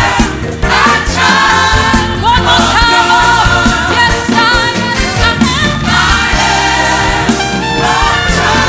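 Live gospel worship music: a choir and lead voices singing over a band.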